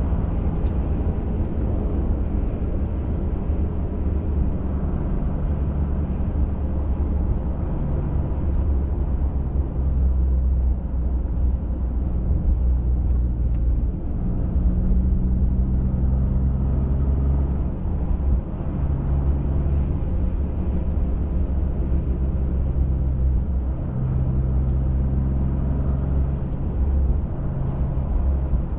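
Ford F-150 Raptor driving on a dirt and snow trail: a steady engine drone with tyre and road noise. The engine pitch rises and falls a little as the speed changes.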